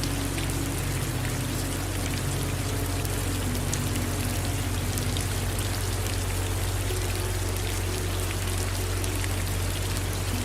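Steady rain falling: an even hiss dotted with many small drop ticks, over a constant low rumble.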